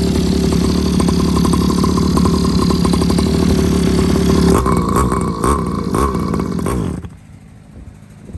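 Small 49cc dirt bike engine running on its newly fitted carburetor, steady at first. About four and a half seconds in it is revved up and down. It cuts off about seven seconds in.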